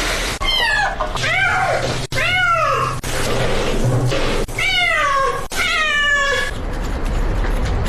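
Domestic cat meowing: a series of about five drawn-out meows, each under a second long, rising briefly and then falling in pitch.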